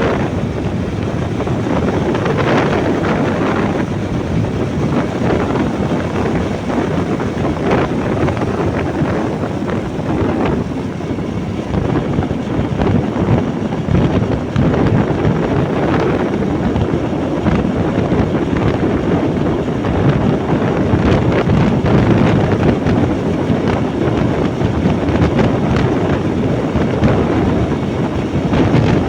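Wind buffeting the microphone on a moving motorbike, a loud, steady rushing noise with the bike's running mixed in underneath.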